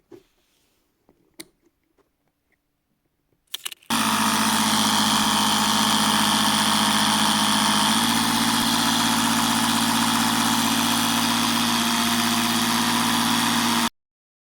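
Repaired air compressor switched on after a few faint clicks, its motor running with a steady hum for about ten seconds, the pitch dropping slightly about halfway, then cutting off suddenly.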